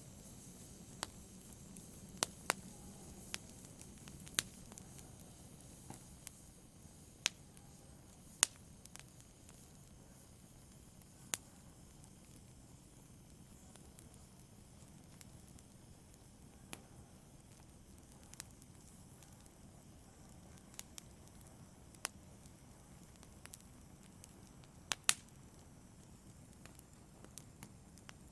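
Wood fire burning in a fireplace: a soft steady hiss with sharp crackles and pops at irregular intervals, a few standing out louder than the rest.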